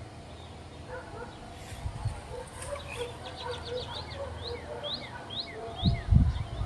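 Songbirds chirping: a quick run of short high notes, then a few slower rising chirps. Near the end come several loud, low thumps on the microphone.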